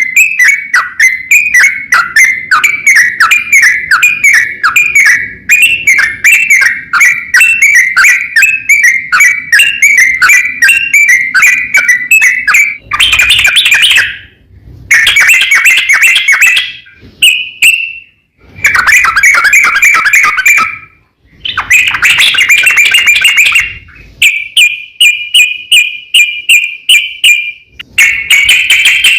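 Sooty-headed bulbul (trucukan) singing a long, rapid chattering string of repeated notes, the 'ropel panjang' song used as a lure to provoke rival bulbuls. After about 12 seconds it breaks into dense bursts with short gaps, then a run of evenly spaced notes near the end.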